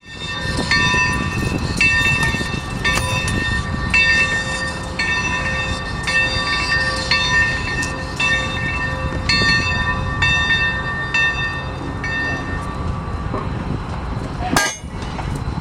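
Locomotive bell ringing about once a second over the low rumble of a train; the strikes stop near the end, and a single sharp crack follows.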